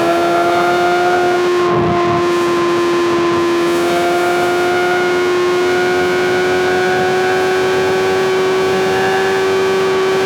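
Superbike inline-four engine and exhaust at high, steady revs under throttle at highway speed, one strong note whose pitch creeps slowly upward, with wind and road noise beneath.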